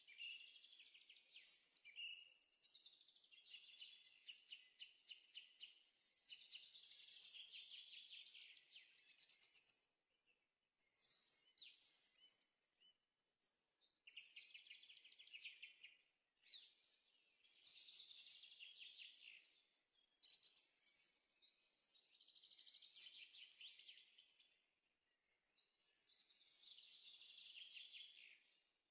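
Faint songbird singing in repeated phrases of quick trills and chirps, with short pauses between them.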